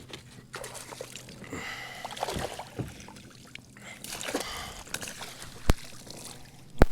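Water splashing and sloshing against a kayak, with scattered small knocks and clicks of handling on the hull. A sharp knock comes a little before the end, and a louder one right at the end.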